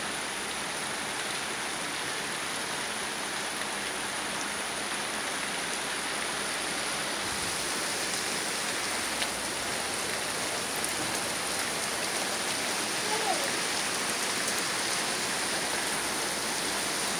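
Steady rain falling, an even hiss of rain on the ground and parked cars below.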